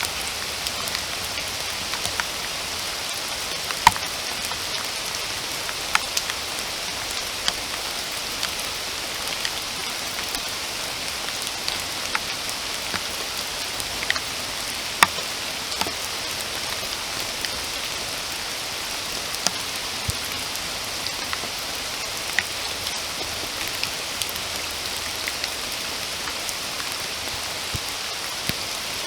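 Steady rain falling, an even hiss, with scattered single drops landing close by as sharp, irregular ticks.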